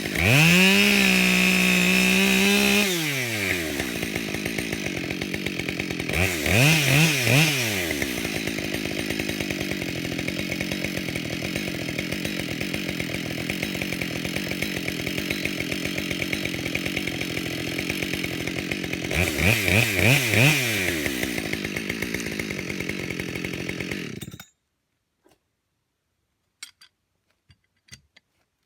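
Husqvarna 572XP two-stroke chainsaw held at full throttle for about three seconds, then dropping to idle. It is blipped up and down a few times twice while idling, then cuts off abruptly near the end, leaving only a few faint clicks.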